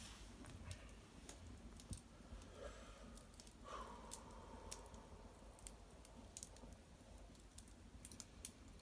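Small wood fire of cedar branches and bark crackling, with sparse, irregular faint pops and snaps.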